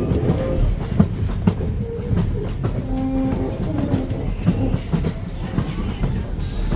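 Railroad passenger coach rolling along the track: a steady low rumble with irregular clacks and knocks from the wheels on the rails.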